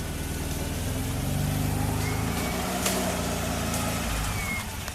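Off-road vehicle's engine running at low revs, building a little about a second in and easing off near the end.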